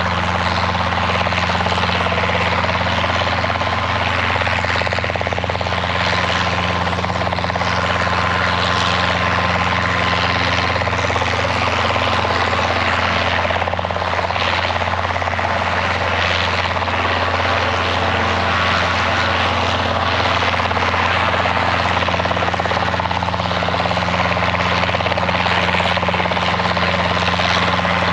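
Robinson piston-engine helicopter running with its rotor turning, a loud steady drone that holds even throughout.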